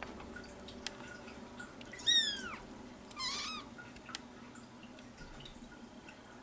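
A kitten mewing twice in a high, thin voice: one cry about two seconds in that falls in pitch, then a shorter one about a second later.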